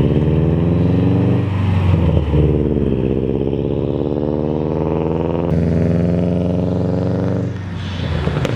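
Car engine running loudly close by, a steady drone that dips briefly in pitch about two seconds in and comes back up, then drops away near the end.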